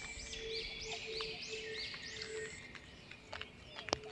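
A bird calling a quick series of high, arched notes, about three a second, that stops about two and a half seconds in. A single sharp click comes near the end.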